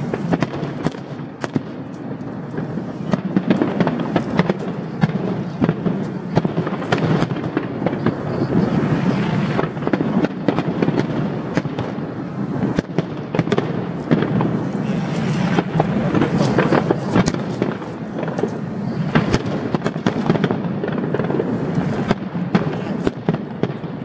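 Aerial fireworks display: a dense, continuous run of bangs and crackling reports, several a second, over a steady rumble.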